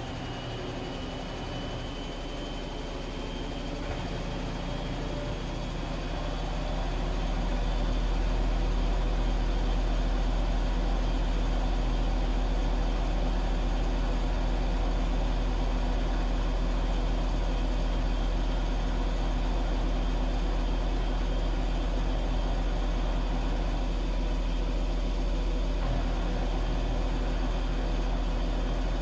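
Washing machine running, a steady low mechanical hum that builds in loudness over the first several seconds and then holds level, with a faint high whine rising slightly near the start.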